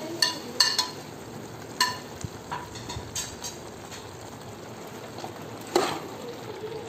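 Thick beef roast frying in a pot with a steady sizzle, while fried coconut pieces drop in and a metal ladle stirs it. Several sharp clinks against the pot come in the first two seconds, and a louder one comes about six seconds in.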